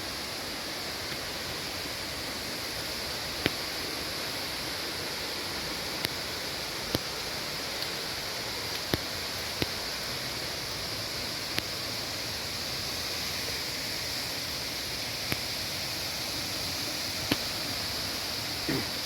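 Bambarakanda waterfall's falling water: a steady, even rush, with a few sharp ticks now and then.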